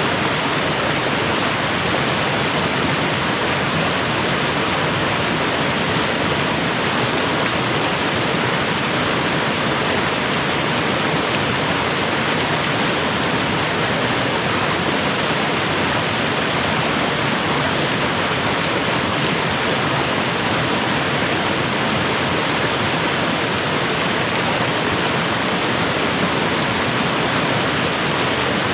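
Rushing water of a mountain creek, a steady, even rush that does not change.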